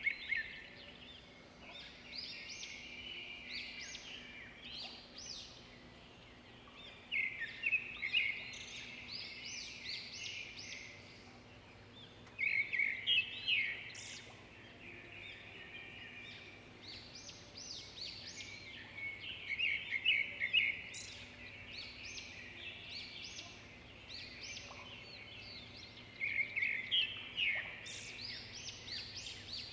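A bird singing outside: a repeated phrase of quick high chirps and trills, coming again about every six or seven seconds, over a faint steady hum.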